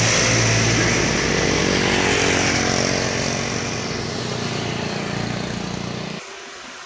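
A motor vehicle engine running loudly close by with a steady low hum, fading over the last few seconds and cutting off abruptly about six seconds in.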